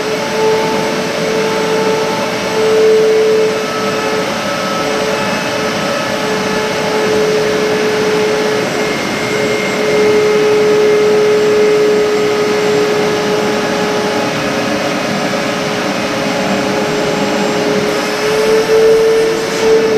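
Small transfer pump running steadily with a whine, sucking coolant out of a radiator through its filler neck; its pitch rises a little and wavers near the end.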